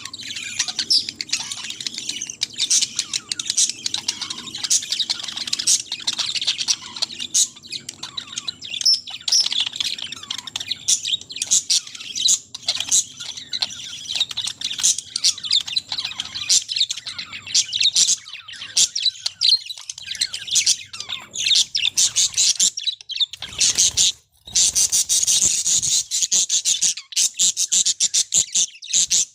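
Many small birds chirping and chattering together without pause, high-pitched overlapping calls, with a brief break about 24 seconds in.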